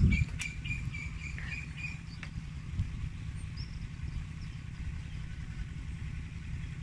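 A bird chirps about half a dozen times in quick succession over a steady low rumble, with a couple of sharp clicks in the first two seconds.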